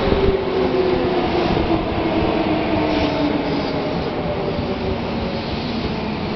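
Kintetsu electric commuter train rolling past close by and slowing as it pulls into the platform. Its wheel and rail noise runs steadily under whining tones that slowly fall in pitch as it brakes.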